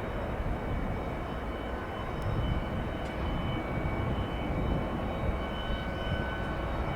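Jet engines of an arriving Airbus A320 airliner: a steady low rumble with faint high whining tones above it.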